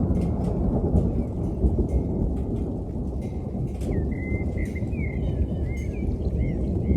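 Rolling thunder rumbling without a break, with rain and scattered drip ticks. A songbird sings a warbling phrase a little past the middle.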